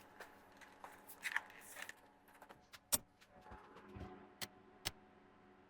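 A few sharp small clicks and light rustling handling noises, the loudest click about three seconds in and two more near the end.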